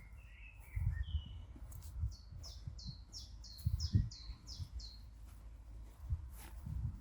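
A songbird calling outdoors: a quick run of about eight short, falling high notes, roughly three a second, after a few lower warbled notes near the start. Irregular low, muffled thumps sound underneath and are the loudest parts.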